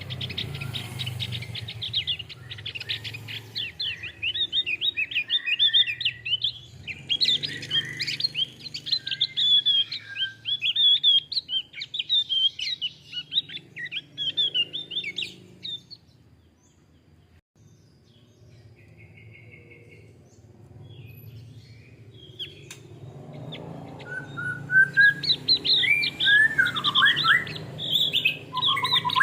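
Male Javan grey-throated white-eye (opior Jawa) singing: fast runs of high, chirping notes that stop for several seconds about halfway through and start again near the end.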